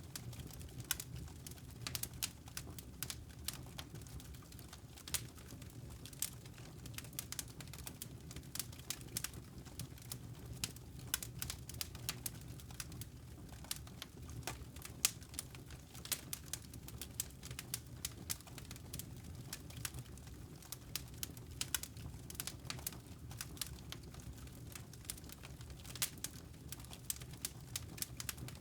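Wood fire crackling in a fireplace: a dense, irregular stream of sharp pops and snaps over a low, steady rumble.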